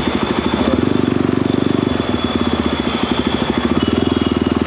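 Motorcycle engine running steadily, with a rapid, even firing beat.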